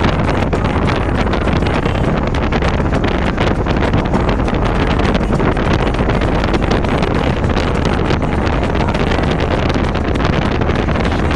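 Steady wind buffeting the microphone over the low rumble of a moving truck.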